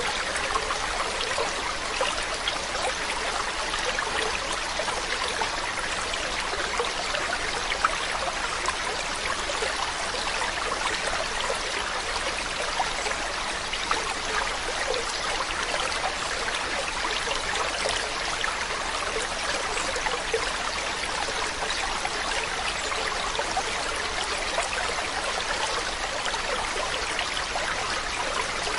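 Running water flowing steadily, a continuous stream-like rush dotted with many small splashes.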